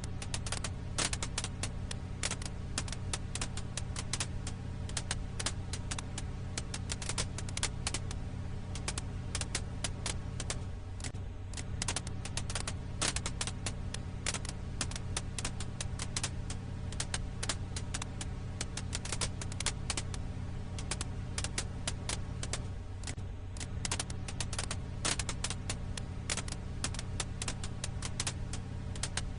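Firewood crackling: a dense, irregular run of sharp pops and snaps over a steady low hum.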